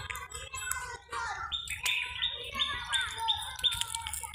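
Several birds chirping and calling, with a quick run of short repeated notes in the middle, over a low steady hum.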